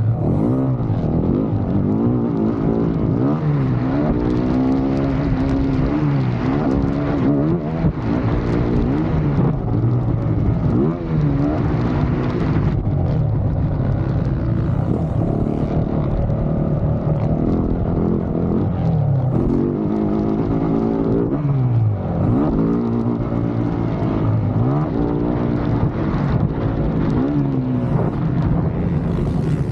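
Dirt bike engine being ridden hard, its pitch repeatedly rising as the throttle opens and falling as it backs off or shifts gear, every second or two.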